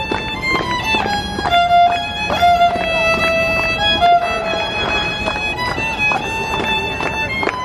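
Music led by a fiddle playing a lively melody of quickly changing notes.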